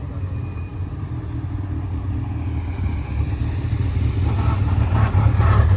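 Car engine running with a low, steady rumble that grows louder toward the end.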